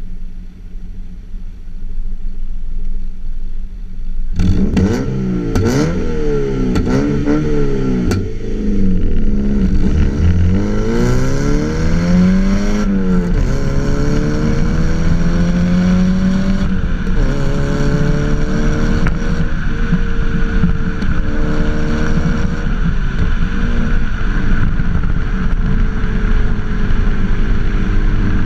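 A 2007 Mazda MX-5 Mk3's 1.8 four-cylinder engine, breathing through an aftermarket big-bore back box and a decat pipe. It idles steadily, is blipped four or five times about 4 s in, then revs up more slowly and drops back. From there it runs at raised revs that ease slowly down.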